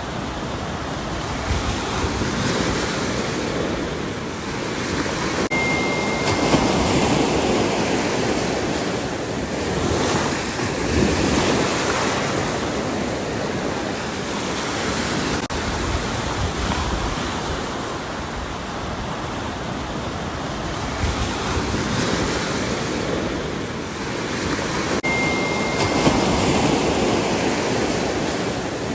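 Ocean waves breaking and washing on a shore: a continuous rushing surf that swells and recedes every few seconds. A brief thin high tone sounds twice, about twenty seconds apart.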